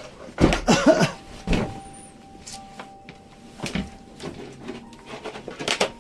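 A door being opened and shut, with a string of knocks and clatter. A short voice sound comes about half a second in.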